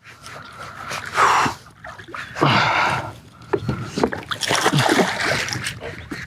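Hooked redfish splashing at the water's surface beside a kayak in several separate bursts while it is fought on the line.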